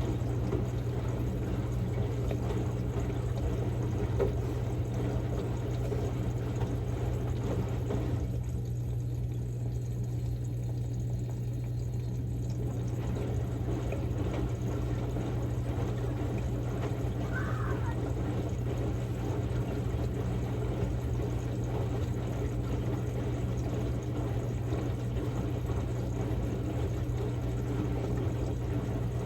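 Samsung Grande washing machine running a quick-wash cycle with a padded jacket: water sloshing and pouring in the drum over a steady motor hum. The water noise drops away for a few seconds in the middle.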